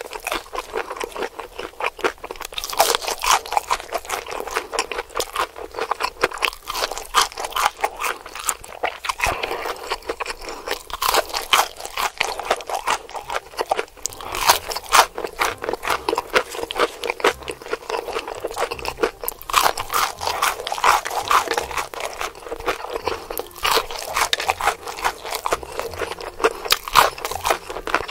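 Close-miked chewing of crispy fried chicken: a dense, irregular run of sharp crunches.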